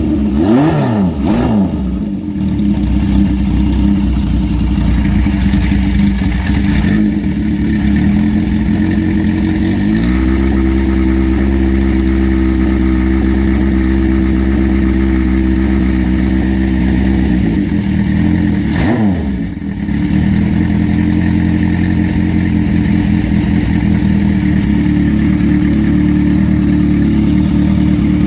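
1973 Honda CB750's air-cooled inline-four engine running while warming up from a cold start. A couple of quick throttle blips at first, then idling; about ten seconds in the engine speed steps up and holds, dips sharply and recovers a little before twenty seconds, then runs steadily.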